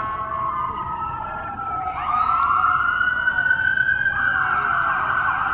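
Fire truck siren sounding, its pitch sliding down over the first couple of seconds, then rising sharply about two seconds in and holding high.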